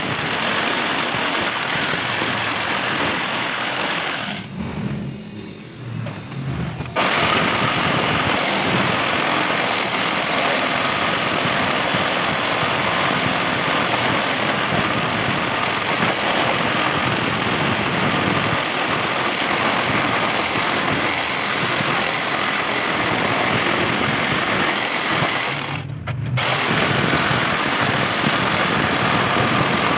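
Electric jigsaw cutting metal, a steady harsh buzz that drops away for a couple of seconds near the start and dips again briefly near the end.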